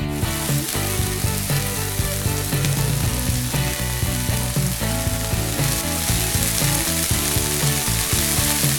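Food frying in oil in a pan, a steady sizzle that starts suddenly at the beginning, with background music underneath.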